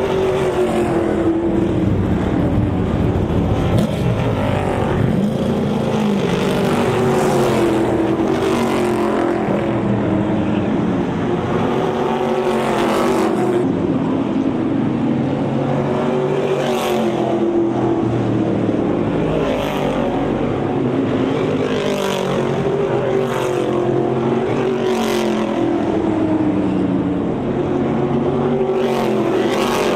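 Several race cars running hot laps on an oval track, engine pitch rising and falling continuously through the turns, with cars passing close every two to three seconds.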